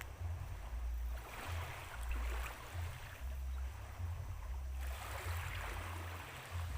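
Water washing in swells that rise and fall about three times, over a choppy low rumble of wind on the microphone.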